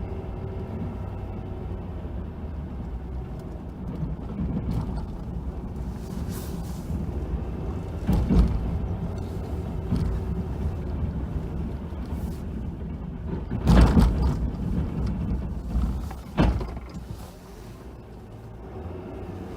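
Snow-plowing vehicle's engine running steadily, with three loud knocks or thumps, the loudest about two-thirds of the way through.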